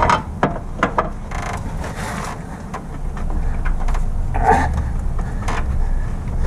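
Metal clicks and clinks of a timing chain and sprocket being handled and fitted onto the front of a Ford 302 V8, scattered irregularly over a steady low hum.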